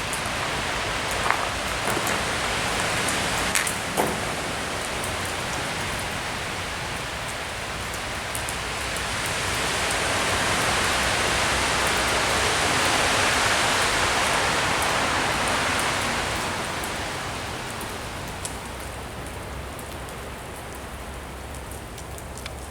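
Steady, even hiss of a wet snowstorm outdoors, like rain. A louder swell of hiss builds about eight seconds in and fades away by about eighteen seconds, and a few faint clicks sound in the first few seconds.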